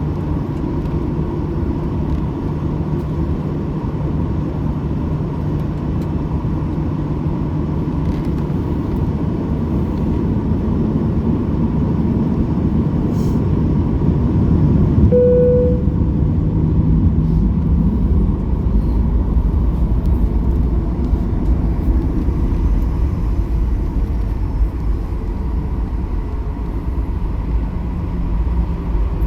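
Steady low rumble of a moving vehicle heard from inside, with a faint steady whine and a short tone about halfway through.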